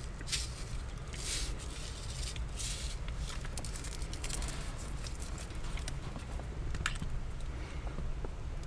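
Rain falling on a light truck camper: many small irregular drop ticks over a steady low rumble, with a few short rustles in the first few seconds.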